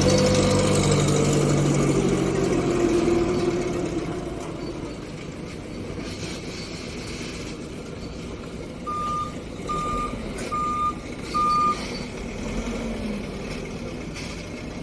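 Forklift engine running and revving for the first few seconds, easing off to a steady run, then its reversing alarm beeping four times, evenly spaced.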